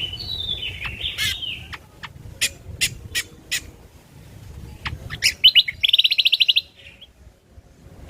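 Cucak kombo (kecial kombok) singing: a warbling phrase first, then four sharp single notes a little apart, then a fast, loud trill of repeated notes about five seconds in, which breaks off shortly before the end.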